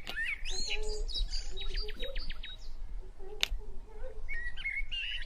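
Birds chirping and twittering, with a quick trill of repeated notes about a second in and lower calls underneath. A sharp click sounds at the start and again about three and a half seconds in.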